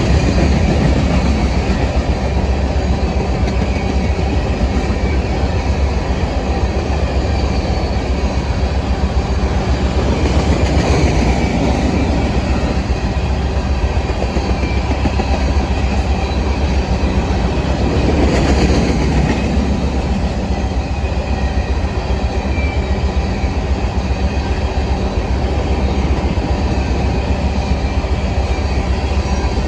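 Train running on the tracks: a loud, steady low rumble with wheel clatter, swelling a few times.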